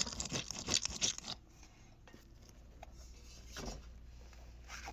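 Crinkly, crackling handling noise of toys being picked over, dense for about the first second and a half, then fading to faint rustles.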